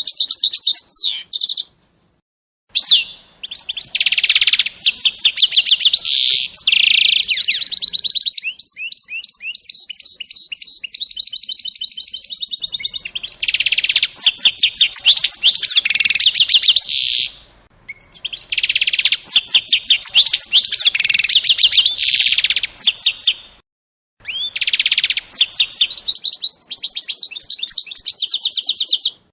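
A small songbird singing long phrases of fast trills and chirps, broken by a few short pauses, loud and close.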